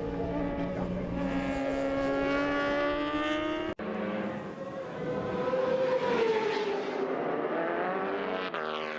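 Racing motorcycle engines at high revs, the note climbing steadily as the bike accelerates. The sound cuts out abruptly a little under four seconds in, then another engine note rises and falls away.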